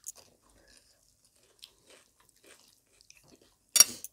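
Close-miked eating: quiet, wet chewing and the small clicks of rice and curry being mixed by hand. Near the end comes one short, loud mouth sound.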